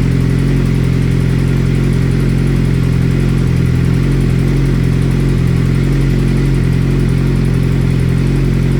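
Suzuki GSX-R600 inline-four engine idling steadily, with a clicking that seems to come from each cylinder in turn. The clicking shows up only at idle and when coming off the gas, which the rider puts down to the vacuum system rather than the valve train.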